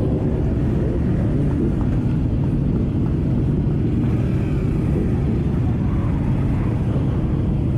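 Steady engine and road noise from a moving vehicle on a motorcycle ride, a dense low rumble that holds level throughout.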